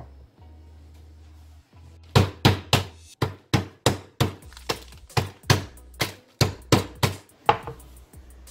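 Ice cubes in a plastic bag being struck hard and repeatedly to crush them: about seventeen sharp blows, roughly three a second, starting about two seconds in.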